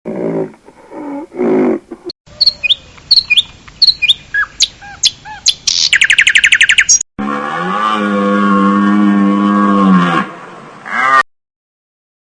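Cut-together animal calls: a few short low calls, then songbirds chirping and whistling, ending in a fast trill, then one long steady pitched call from a larger animal that rises at its end.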